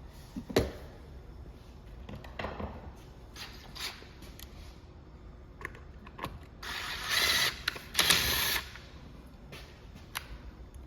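Scattered clicks and knocks of tools and parts being handled during work on an Echo string trimmer's clutch, with two short loud hissing bursts about seven and eight seconds in.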